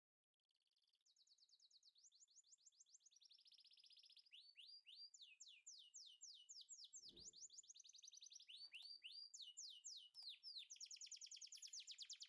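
Faint songbird song fading in from silence: fast trills and runs of quick, repeated high notes that grow gradually louder.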